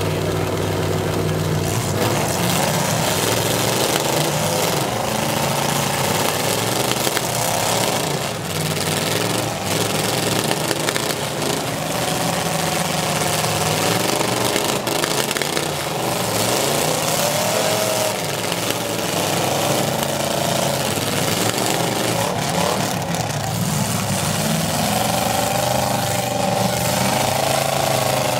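Several eight-cylinder demolition derby car engines running together and revving up and down, over a steady wash of noise.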